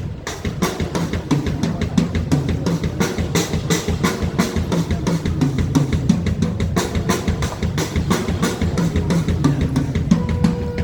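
Band music at sound check with the drum kit to the fore: regular bass drum and snare hits over a low bass line, and a held note coming in near the end.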